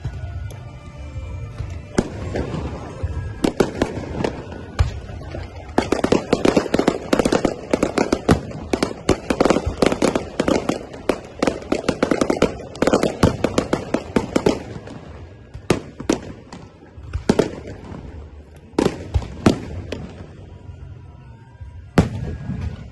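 Aerial fireworks going off. A few scattered bangs come first, then a dense run of rapid crackling reports for about eight seconds. After that, single loud bangs come a second or two apart.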